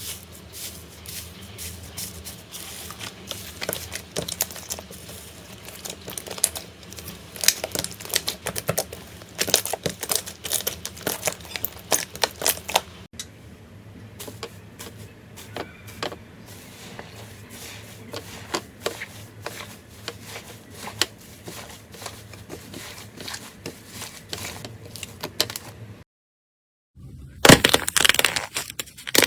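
Slime being squeezed and stretched by hand, giving a dense, irregular run of clicks and crackles. The sound drops out for about a second near the end, then comes back as a louder crunching.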